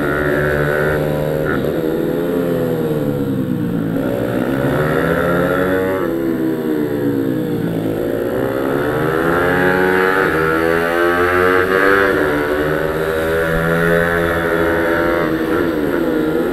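Pit bike engine at racing speed, revs falling and climbing again and again as it brakes and accelerates: the pitch drops about four seconds in and again near eight seconds, climbs to a high around eleven to twelve seconds, then dips and rises once more near the end.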